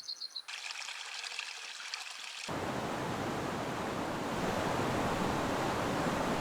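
Crickets chirping briefly at the start, then a fine high hiss, cut at about two and a half seconds to the loud, steady rush of fast-flowing river water.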